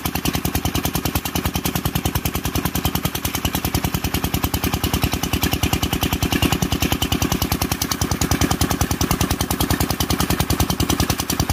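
Kirloskar single-cylinder diesel engine running steadily after repair, with an even, regular firing beat.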